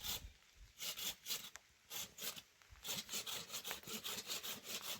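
Rhythmic back-and-forth rasping strokes, broken by two short pauses in the first three seconds, then running steadily at about four strokes a second.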